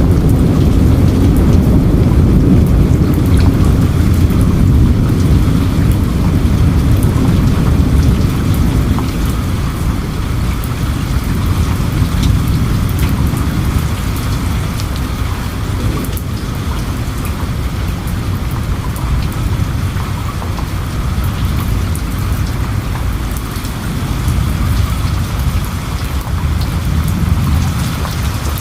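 Steady rain with dense pattering drops, under a deep rumble of thunder. The rumble is loudest for the first eight seconds or so, dies down, and swells again near the end.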